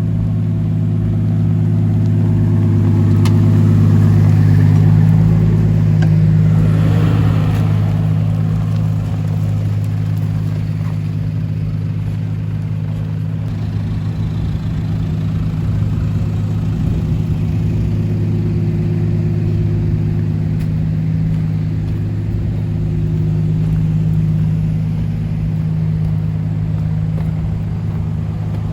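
A four-wheel-drive vehicle's engine running under load at low speed, a steady low drone that swells slightly a few seconds in. A short rushing noise comes about six seconds in.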